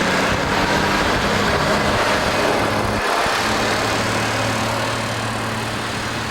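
Snowplow truck's engine running as it works past, over a steady rushing noise. The engine note breaks and shifts about three seconds in.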